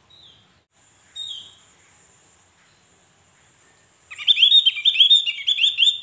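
Javan grey-throated white-eye (opior Jawa) giving two short, high, falling calls. About four seconds in it breaks into a loud, fast song of rapidly repeated chirping notes.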